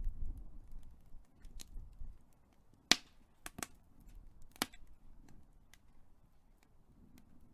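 Big wood fire crackling: scattered sharp pops and snaps over faint hiss. The loudest pop comes about three seconds in, with a low rumble in the first two seconds.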